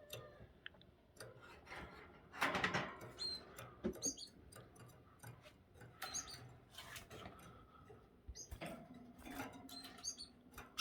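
Canaries in a cage giving short, high chirps here and there, with brief rustles of wings fluttering.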